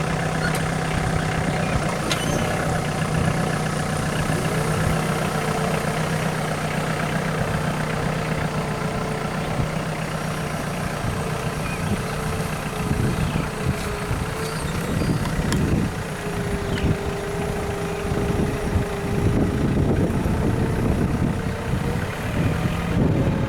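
Tractor engine running steadily, growing rougher and noisier about halfway through.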